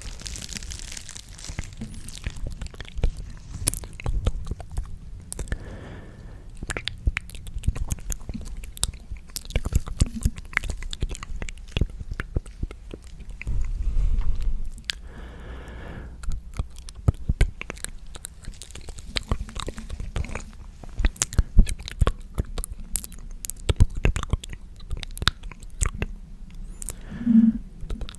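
ASMR mouth sounds made close to the microphone: a dense, irregular run of wet clicks and smacks, with a couple of brief breathy stretches.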